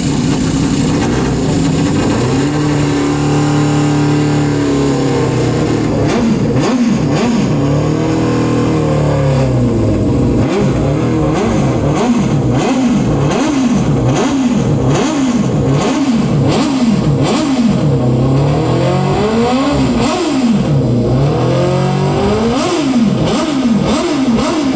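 Daytona-winning Honda racing motorcycle engine being revved: held at steady revs for a few seconds, then a long run of quick throttle blips, the pitch rising and falling over and over, reaching about 9,000 rpm, where its narrow power band of 9,000 to 10,000 rpm begins.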